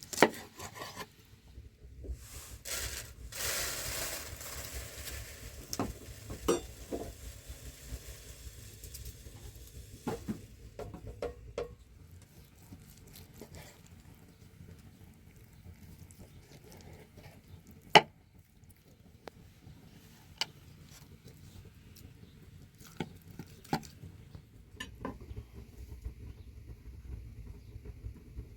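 Scattered clinks and knocks of objects being handled, with a rustling hiss for a couple of seconds near the start and two sharper knocks, one at the very beginning and one about two-thirds of the way through.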